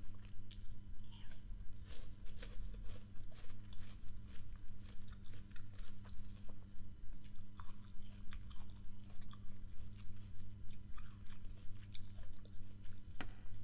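A bite into a piece of crisp raw fruit, then crunchy chewing with many small crackles, close to the microphone, and one sharp crunch near the end. A steady low electrical hum runs underneath.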